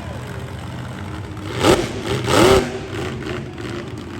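Monster truck engine running, with two loud quick revs about halfway through, each rising and falling in pitch.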